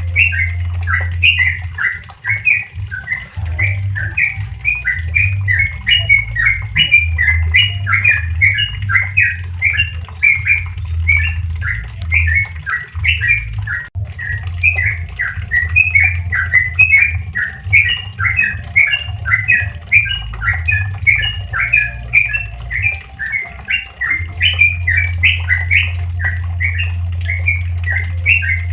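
Yellow-vented bulbul (trucukan) singing its rapid rolling 'ropel' song, an unbroken run of quick chirped notes several a second, over a steady low hum.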